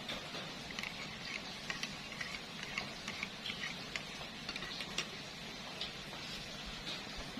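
Rain falling steadily, with irregular drips ticking and pattering on a hard surface.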